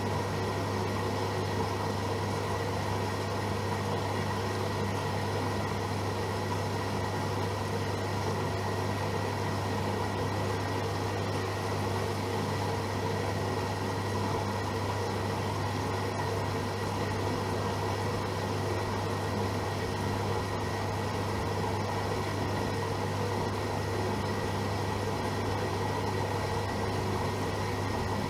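AEG Öko-Lavamat Lavalogic 1600 front-loading washing machine running mid-cycle, giving a steady, unchanging motor hum.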